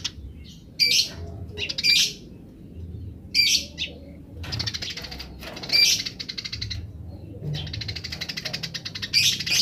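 Eurasian tree sparrows calling: loud single chirps every second or so, alternating with fast chattering trills (the 'grece' call). One long chatter runs through the second half, with a loud chirp near the end.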